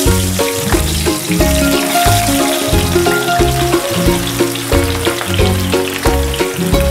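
Sliced onions sizzling and frying in hot oil in a pan, a steady hiss that starts as they go in, under background music with a repeating bass line.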